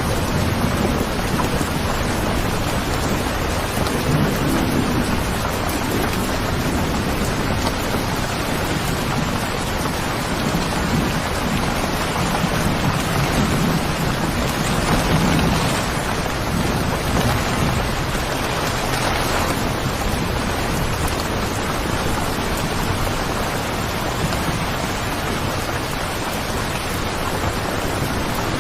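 Steady rain with low rumbles of thunder, swelling a few seconds in and again around the middle.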